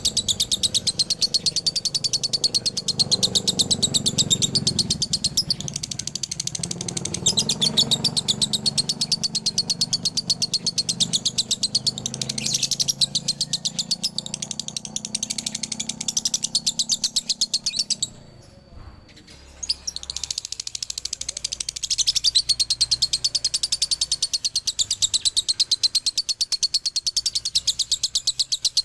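Male lovebird singing its long, fast chattering 'ngekek' song in the doubled delivery breeders call dobelan, a dense stream of high, rapid chirps. It breaks off for about two seconds roughly two-thirds of the way through, then carries on.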